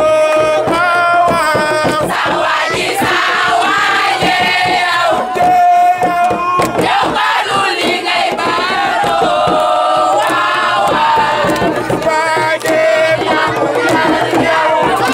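A crowd of voices chanting and singing together, loud and unbroken, with shouted lines mixed into the group singing.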